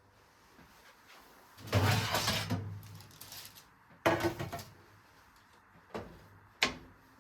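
Kitchen handling sounds: a rough scrape or rustle lasting about a second, a sharp knock about four seconds in, then two lighter clicks near the end.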